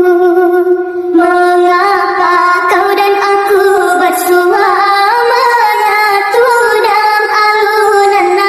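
A song sung in a high-pitched voice, holding long notes that slide up and down.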